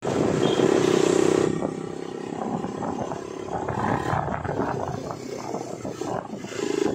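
KTM RC motorcycle's single-cylinder engine running while ridden slowly, loudest for about the first second and a half and again near the end, quieter in between.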